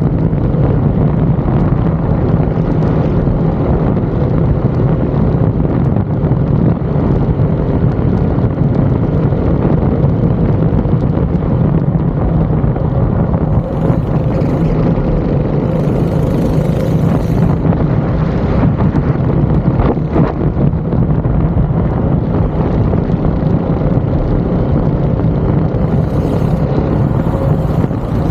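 Racing go-kart engine running hard at speed, its note holding fairly steady throughout.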